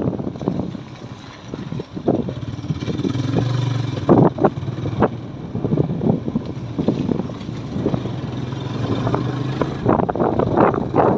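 Motorcycle engine running steadily while riding, with scattered short knocks and rattles.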